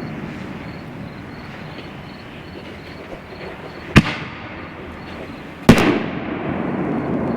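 5-inch canister firework shells going off: two sharp, loud bangs about a second and a half apart, over a low rolling rumble of echo that builds after the second bang.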